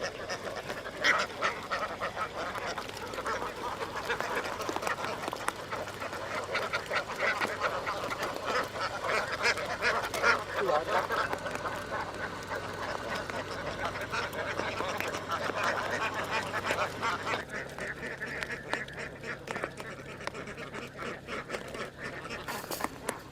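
A large flock of domestic ducks quacking continuously, many calls overlapping into a dense chatter. A faint steady low hum runs underneath.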